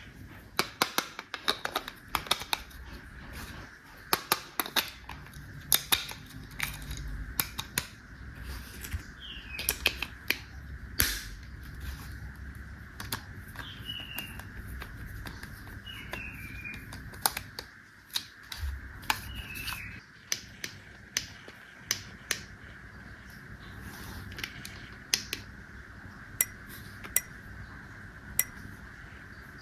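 Small plastic toy parts being handled, with irregular sharp clicks and taps and a few short chirps partway through.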